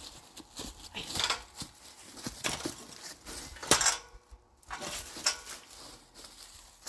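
Irregular light knocks and clinks, some of them metallic, about a dozen spread over several seconds, the loudest near four seconds in.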